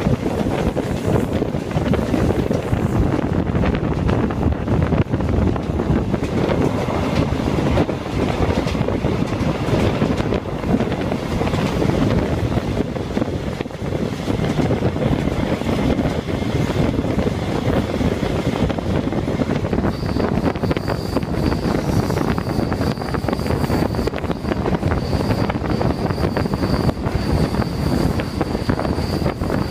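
A train hauled by an Alsthom diesel locomotive running steadily, a continuous rumble with wind buffeting the microphone. About two-thirds of the way through, a thin, steady high-pitched squeal joins in.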